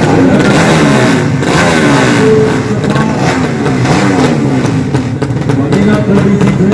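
Several drag-racing motorcycle engines revving at once, their overlapping pitches rising and falling.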